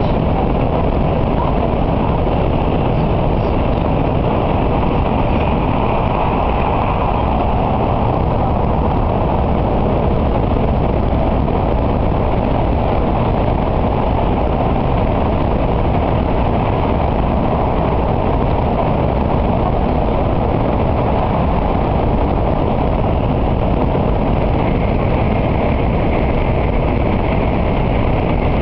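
N700A Shinkansen running through a tunnel, heard inside the passenger cabin: a loud, steady, unbroken rushing rumble, heaviest in the low end.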